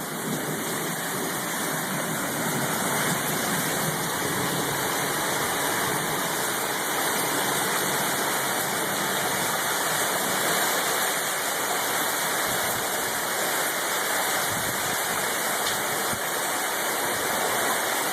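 Heavy tropical-storm rain falling steadily, a dense even rush of water noise.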